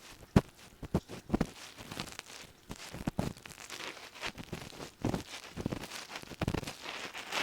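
Ear pick scraping and rubbing close inside the ear canal of an ASMR ear microphone. It makes irregular crackly scrapes and sharp clicks, several a second, meant as the crackle of earwax and deep grinding strokes.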